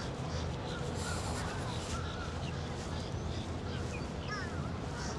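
Birds calling: many short chirps and squeaky, curving calls scattered throughout, over a steady low rumble of outdoor background.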